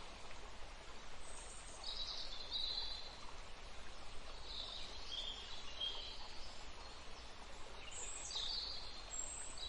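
Wild birds calling in short high chirping phrases, three bouts a few seconds apart, over a steady outdoor background hiss.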